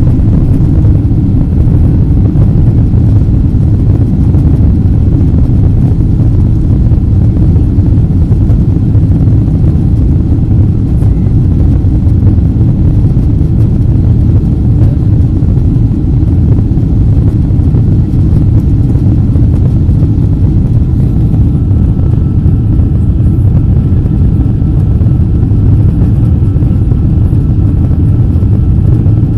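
Steady low rumble of a Boeing 777-200ER's jet engines and airflow, heard inside the passenger cabin.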